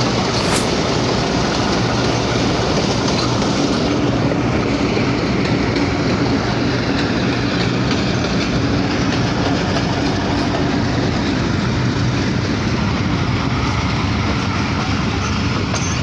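Pakistan Railways train running along the track: a steady, loud rumble of wheels on rails with a low, even hum underneath.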